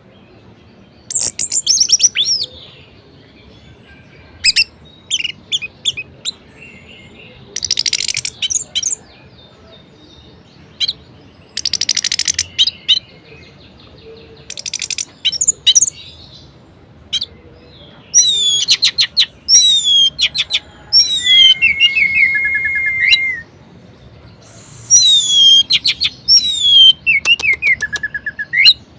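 Orange-headed thrush singing: loud bursts of varied, high-pitched phrases of downward-sweeping whistles and rapid trills, separated by short pauses, with one held steady whistle a little past two-thirds through.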